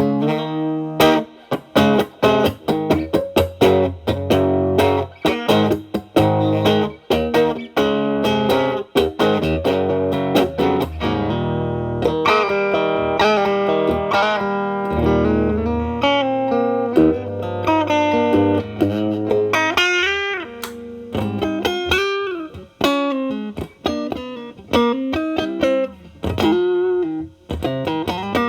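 Telecaster electric guitar played through an MXR Distortion+ pedal with its distortion knob at minimum, into the clean channel of a Marshall Valvestate amp. Chords and single picked notes, with string bends in the second half.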